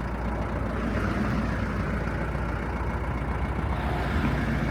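A machine running steadily, with a strong low hum under an even rushing noise.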